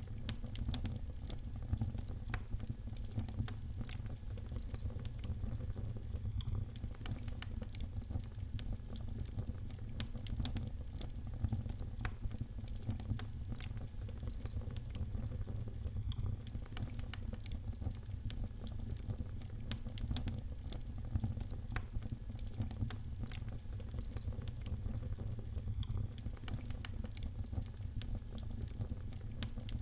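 Fire in a fireplace crackling: many small, irregular pops and snaps over a steady low rumble of the flames.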